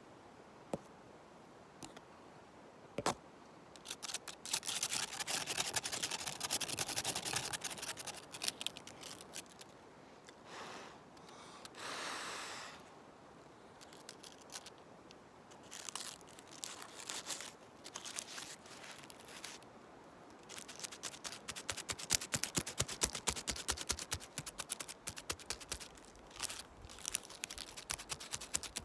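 Dry leaves and a spruce branch being rustled and scratched, making crackling and crinkling. There are a few single clicks at first, then spells of dense crackling, one smoother swish midway, and a long crackling spell through the last third.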